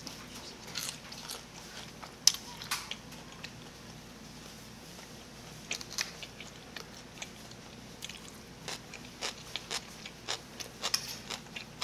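Close-up crunchy bites and chewing of fried snack food, with sharp crackly crunches scattered irregularly, the loudest about two seconds in.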